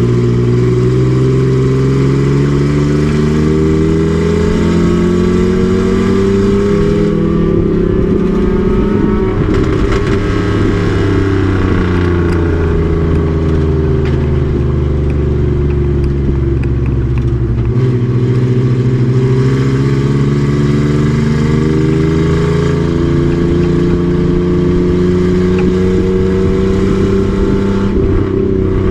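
Race truck's engine under hard driving, its pitch climbing as it accelerates, falling away as it slows around the middle, then climbing again as it pulls back up to speed.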